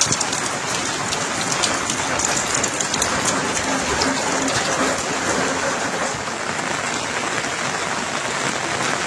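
Steady rain falling, with many separate drops hitting close by, most thickly in the first few seconds.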